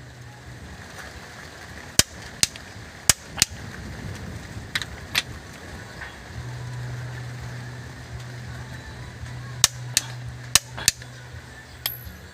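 Hand tools clinking against metal while an excavator engine is being serviced: about a dozen sharp, separate knocks at uneven intervals. Under them is a steady low hum that drops out in the middle and returns about halfway through.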